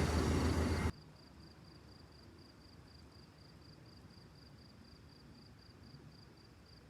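An Amtrak passenger train passing loudly, cut off abruptly about a second in. Then a single insect, likely a cricket, chirps faintly and steadily, about three high chirps a second.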